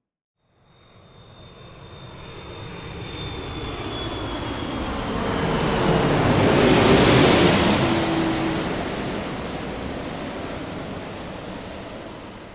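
An aircraft flying past. Its noise swells to a peak about seven seconds in and then fades, while its whining tones slide down in pitch as it goes by.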